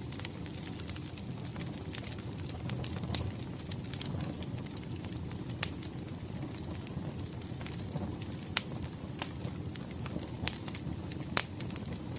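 Wood fire crackling, with a steady low rush and scattered sharp pops, the loudest about halfway through and near the end.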